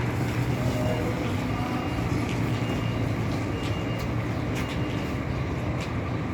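Diesel engine of a Scania coach running steadily with a constant low hum, a few faint clicks over it.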